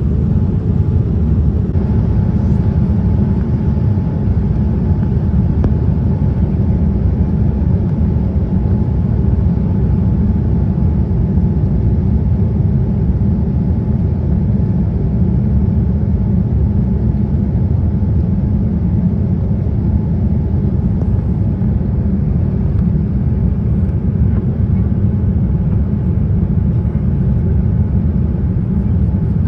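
Boeing 787-10 cabin noise in flight: a loud, steady rumble of engines and airflow, with a faint steady tone above it.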